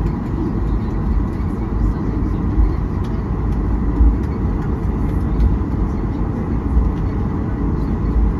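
Steady low rumble of a jet airliner cabin in flight, with a faint constant whine above it.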